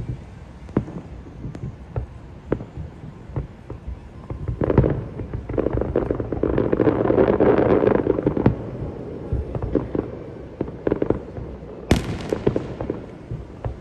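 Fireworks going off: scattered booms and pops, with a dense run of crackling bursts from about five to nine seconds in and a sharp, hissing crackle near the end.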